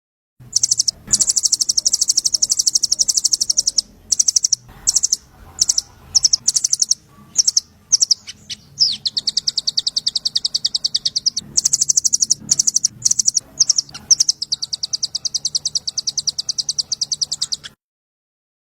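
A small songbird's rapid, high chirping trill, many notes a second in long runs broken by short pauses, from a masteran recording used to train murai to copy it. It starts just after the beginning and cuts off abruptly near the end.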